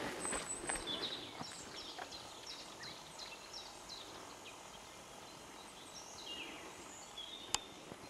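Small forest birds calling: many short, high chirps that fall in pitch, repeated on and off. Footsteps on the dirt trail in the first second or so, and one sharp click near the end.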